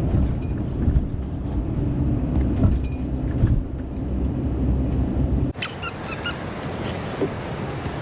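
A vehicle engine runs steadily while driving. About five and a half seconds in the sound cuts abruptly to wind buffeting the microphone, with a few short high squeaks.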